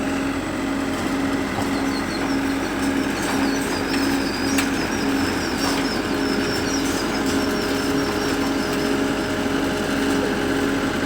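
A combine harvester's diesel engine running steadily with an even throb, the machine being driven off a truck under its own power. A fast run of high chirps sounds over it for several seconds in the middle.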